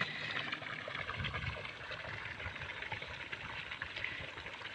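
Steady hiss of flowing water, with soft, irregular low bumps underneath.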